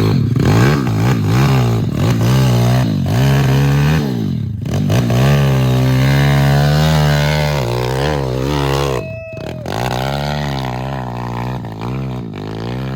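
Single-cylinder pit bike engine revving hard under load on a steep dirt hill climb, its pitch rising and falling again and again as the throttle is worked. It dips briefly about nine seconds in, then picks back up.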